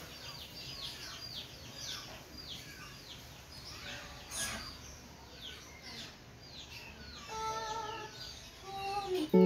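Birds chirping, a quick series of short falling calls, with a few brief held tones near the end.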